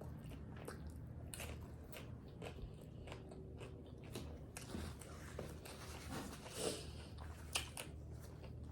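Faint close-up chewing and mouth sounds of a person eating tacos, with a few small wet smacks and clicks spread through.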